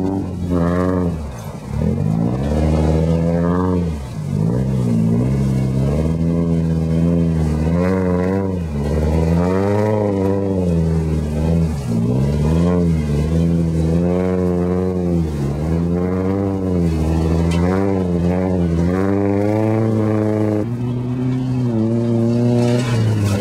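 Nissan 240SX's KA24DE 2.4-litre four-cylinder engine revving hard and falling back over and over as the car drifts on grass. The pitch rises and drops roughly every second.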